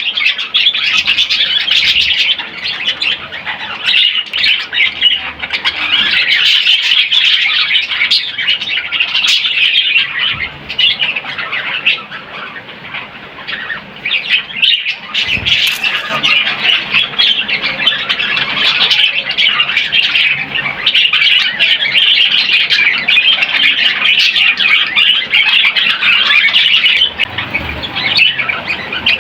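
Several budgerigars chattering and chirping continuously, a dense run of rapid squawky warbles that eases off briefly about halfway through.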